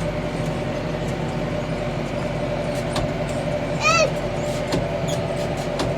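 Tractor engine running steadily under load, heard from the cab, with a short high-pitched cry about four seconds in.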